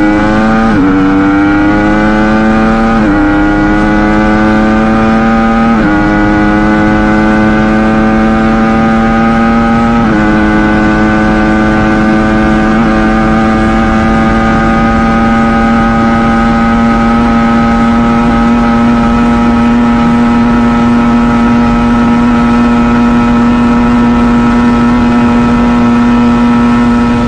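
Ducati Panigale V4 S's V4 engine accelerating hard through the gears: the pitch climbs and drops with quick upshifts about one, three, six and ten seconds in. It then holds in top gear, the pitch rising only slowly as the bike nears top speed.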